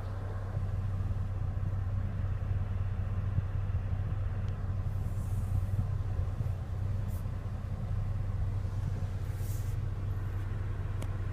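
2015 Lexus RX 350's V6 engine idling in reverse, a steady low hum heard from inside the cabin, with a couple of faint clicks.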